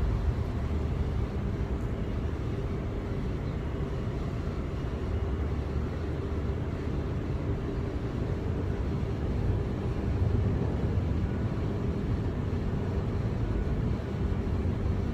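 Steady low vehicle rumble with a faint hum of held tones, unchanging throughout.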